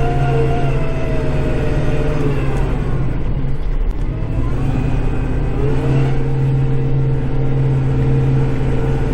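Kubota tractor's diesel engine heard from inside the cab, running steadily while clearing snow; its pitch sags a couple of seconds in and climbs back to a steady pitch about six seconds in.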